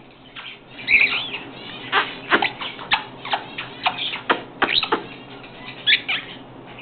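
Pet parrot vocalizing: a rapid string of short, sharp calls and clicks with a few brief pitched notes.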